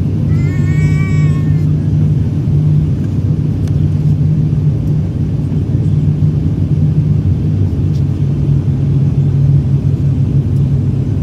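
Steady low rumble of a jet airliner's engines and airflow heard inside the cabin during the landing approach. Near the start there is a brief pitched sound that rises and falls.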